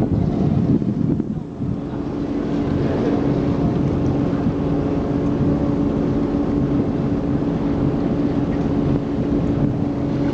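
Canal tour boat's engine running with a steady hum.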